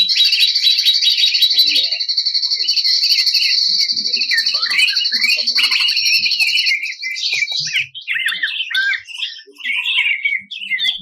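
Green leafbird (cucak ijo) singing a fast, rattling trill, held for about seven seconds over other song notes, then breaking into varied sharp chirps and short whistled glides.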